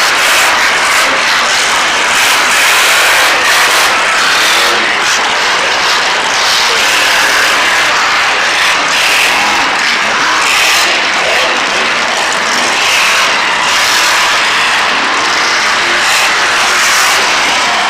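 Monster truck engines running, loud and steady throughout.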